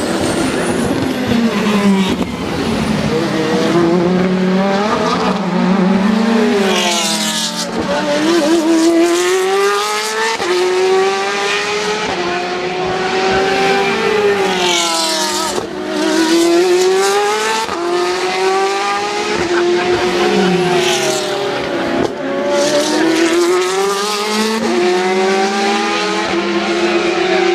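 Endurance race cars going past one after another at racing speed, each engine note sweeping up and then down in pitch as the car passes, with a new car every few seconds.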